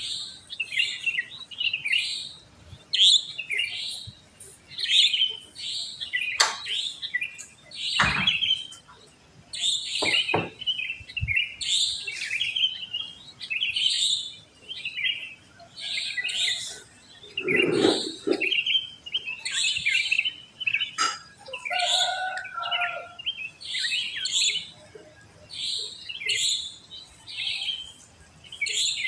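Sooty-headed bulbuls (kutilang) chirping and singing in a dense, continuous chorus of short bubbly phrases, with a few brief knocks in the background.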